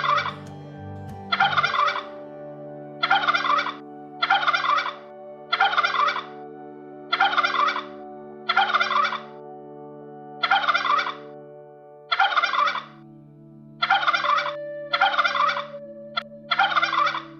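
An animal calling in about a dozen short rattling bursts, roughly one every second and a half, over a steady low hum.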